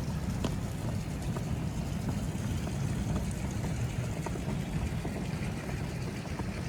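Steady low rumble of downtown city ambience, distant traffic and wind, with scattered faint ticks.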